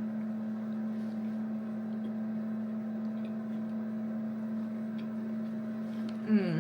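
Steady electrical hum with a few faint clicks. Near the end comes a brief vocal sound that falls in pitch.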